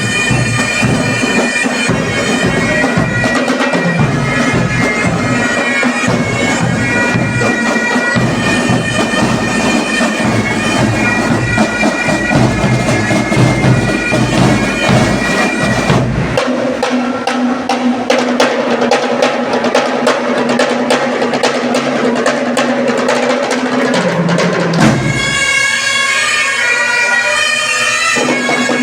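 Bagpipes playing a tune over their steady drone, with drums beating along. The drums drop out a little past halfway, leaving the pipes alone.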